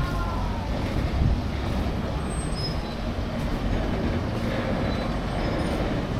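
Steady low rumbling background noise of an outdoor urban scene, with no clear single event.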